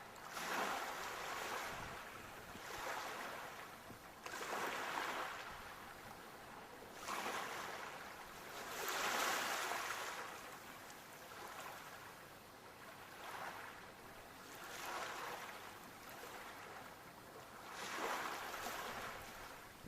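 Small sea waves washing in one after another, each a hiss that swells and fades, about every two seconds.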